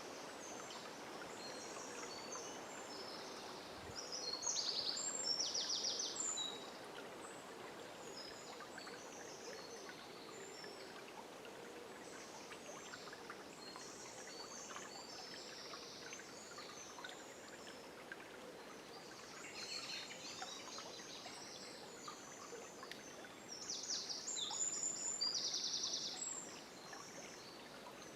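A river flowing steadily, with many birds singing in a dawn chorus over it. Twice, about four seconds in and again near the end, one bird sings louder with a rapid trill lasting a couple of seconds.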